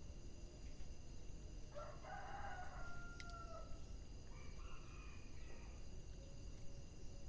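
A rooster crowing once, a long drawn-out call of about two seconds starting near two seconds in, followed by a fainter short call, over a steady low background noise with an occasional click.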